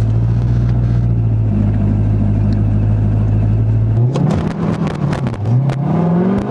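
Manual Corvette C5's V8 held at steady raised revs, then about four seconds in the clutch is let out: the revs sag briefly and then climb steadily as the car pulls away. It is a stumbling launch, the clutch let out too abruptly.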